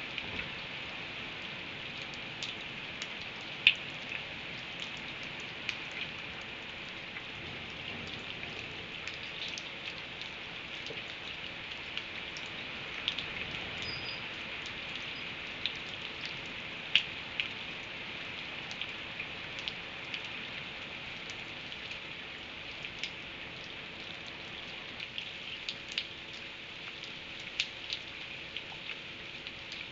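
Steady rain falling, with drops ticking irregularly on a hard surface; a few ticks are sharper and louder, about 4 s and 17 s in.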